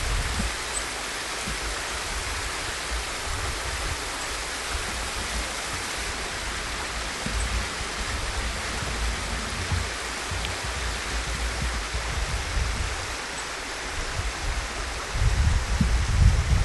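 Partly frozen waterfall with water falling in a steady rush, and an uneven low rumble that grows louder near the end.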